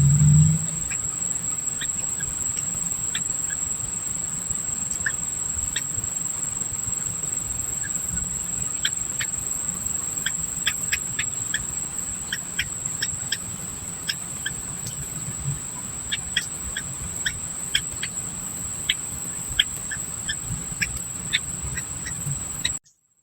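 Small birds giving short, high chirps, scattered at first and coming thicker from about nine seconds in, over a steady high-pitched insect drone. The sound cuts off abruptly just before the end.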